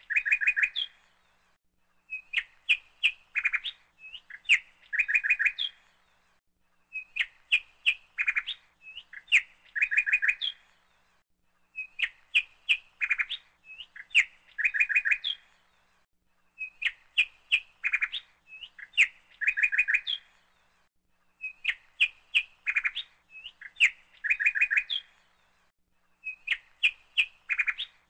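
Songbird chirping: the same short two-part phrase of quick chirps, repeated about every five seconds with near silence between.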